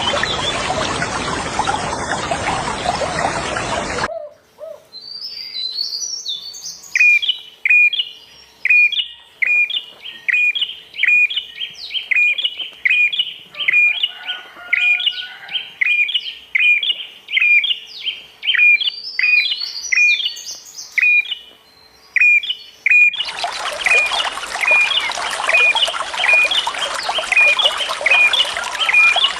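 Running water rushing, which cuts off abruptly about four seconds in and comes back just as suddenly near the end. In between, a songbird repeats the same short chirp over and over, with higher, falling calls mixed in, and its chirps carry on over the returning water.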